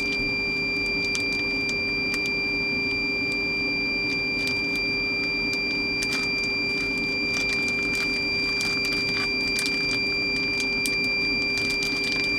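Plastic zip-top bags and meat packaging crinkling in short, irregular crackles as pieces of meat are bagged by hand. Underneath runs a steady machine hum with a constant high whine.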